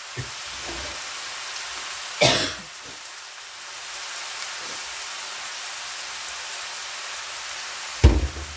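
Soy chunks and sliced vegetables sizzling in oil in a hot frying pan, a steady hiss. Two short clattering knocks cut through it, one about two seconds in and a louder one near the end.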